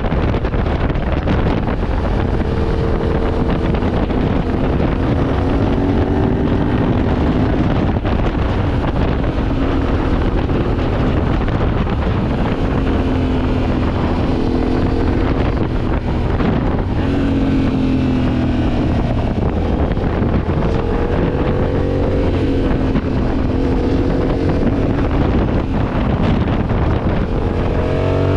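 Yamaha Ténéré 700's parallel-twin engine running under way, its pitch rising and falling again and again as the revs change, under heavy wind buffeting on the microphone.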